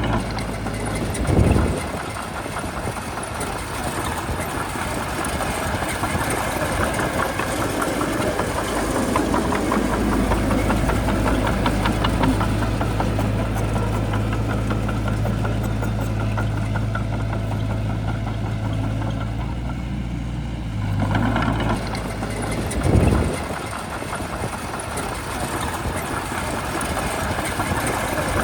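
Shantui bulldozer's diesel engine running steadily, its tone shifting as the load changes: a deeper, heavier rumble from about ten seconds in to about twenty-one seconds. Two brief loud swells, one about a second and a half in and one near twenty-three seconds.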